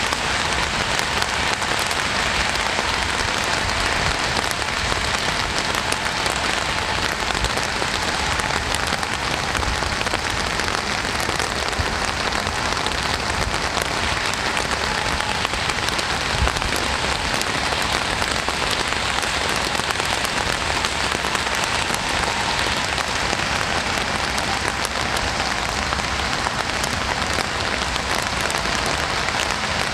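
Steady rain falling on a surface, a dense even patter of raindrops.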